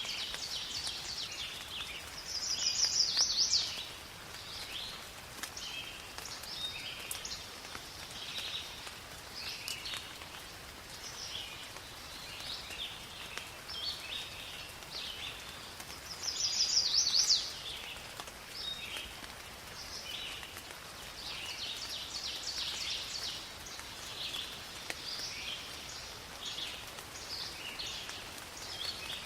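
Forest birds chirping and singing continuously over light rain, with two louder song phrases, one about three seconds in and another about sixteen seconds in.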